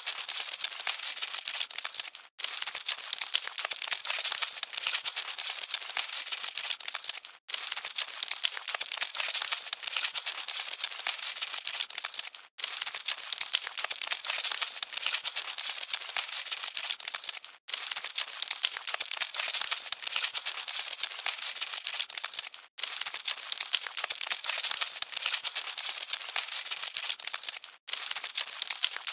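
Cockroaches scuttling: a dense, fast, high crackling and rustling. It plays as a short loop that drops out for an instant about every five seconds.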